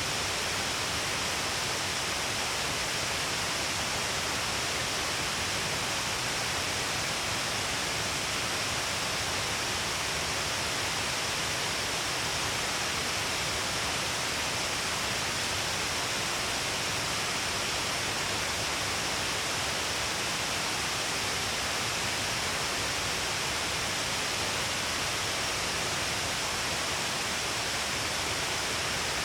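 Shiraito Falls, many falls streaming down a long cliff face, giving a steady, unbroken rush of falling water.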